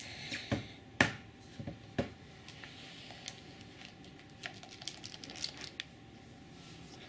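Handling noise: a few sharp knocks, the loudest about a second in, then a quick run of light clicks and taps.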